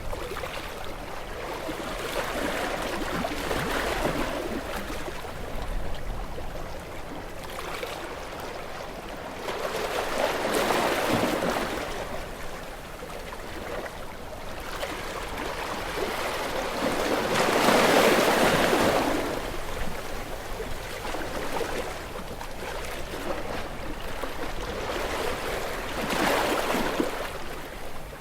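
Sea waves breaking on rocks along the shore: a steady rush of water, swelling and falling back every seven or eight seconds, with the strongest surge about two thirds of the way through.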